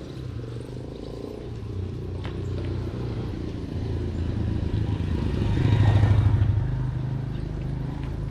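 A motor vehicle's engine running, getting louder to a peak about six seconds in and then fading as it passes close by.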